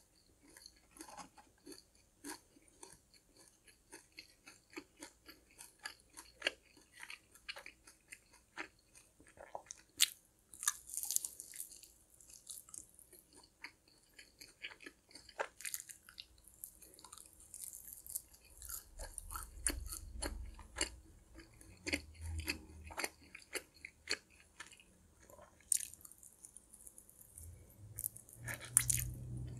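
Close-miked chewing and biting of a buffalo mild chicken wing: a steady run of small wet mouth clicks and smacks, with louder bites about ten seconds in, again around sixteen seconds, and near the end.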